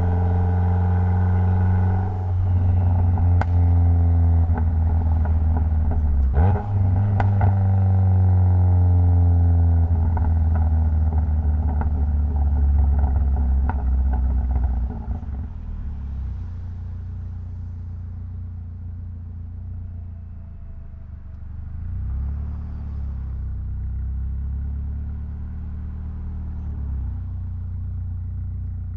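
Mitsubishi Lancer Evolution X's turbocharged 2.0-litre four-cylinder engine running under steady load, with short breaks about two and six seconds in, then dropping to a quieter, lower drone about halfway through.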